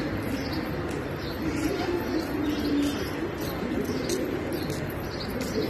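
Birds cooing in short low calls, with a few brief high chirps, over a steady background noise.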